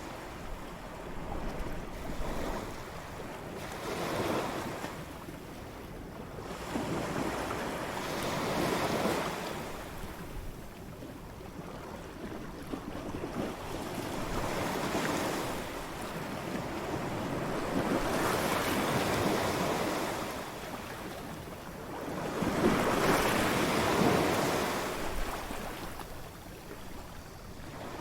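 Ocean waves breaking on a beach, each wave swelling and washing out every four or five seconds, with the strongest break near the end.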